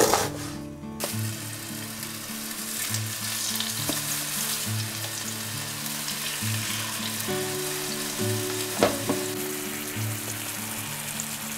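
Chicken breasts sizzling steadily as they fry in oil in a frying pan, with a few brief knocks. In the first second, a knife chops through red onion on a cutting board.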